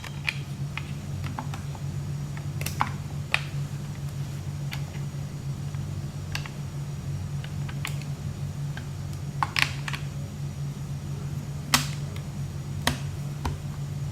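Scattered sharp metallic clicks and taps of Fedorov Avtomat rifle parts being handled and fitted together during reassembly, the loudest a few clicks in the second half, over a steady low hum.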